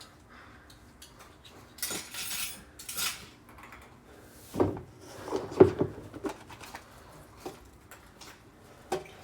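Dishes and utensils being handled, clattering and clinking, with two louder knocks a little past the middle.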